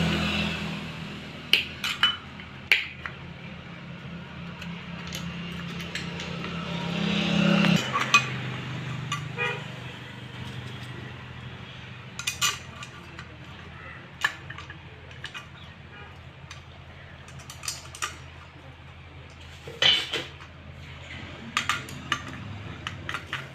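Metal hand tools and engine parts clinking and tapping against each other at irregular intervals during hand assembly of a motorcycle engine, over a steady low hum.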